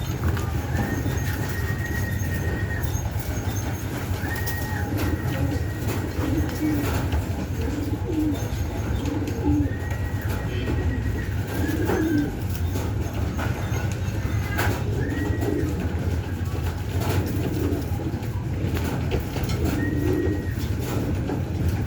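Domestic pigeons cooing, short low coos repeating every second or two, over a steady low hum. A thin high tone recurs every few seconds.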